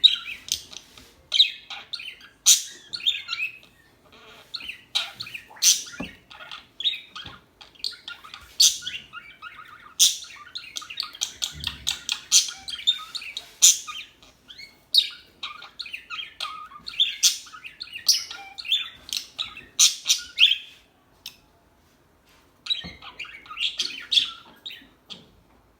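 Pet budgerigars chattering and chirping in rapid, continuous bursts, with a brief lull a few seconds before the end.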